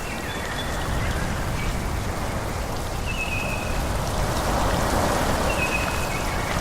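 Forest ambience: a steady rushing of wind through trees, or of rain, swelling a little past the middle. A few brief high bird chirps come through it.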